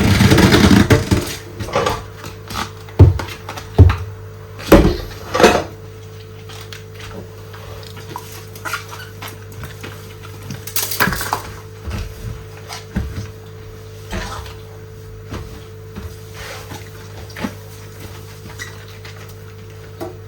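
Dishes and cutlery clinking and knocking as they are handled while washing up by hand, with a few loud knocks early on and lighter clinks after. Running tap water stops about a second in, and a steady low hum continues underneath.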